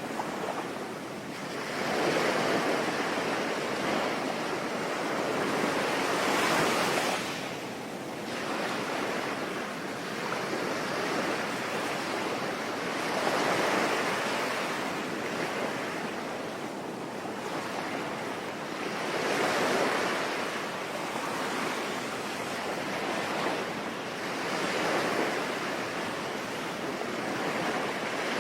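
Sea waves breaking and washing in slow swells every several seconds, over a steady hiss of rain.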